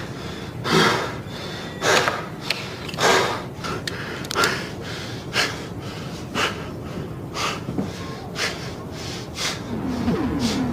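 A person breathing or snorting into the microphone: short, noisy breaths about once a second.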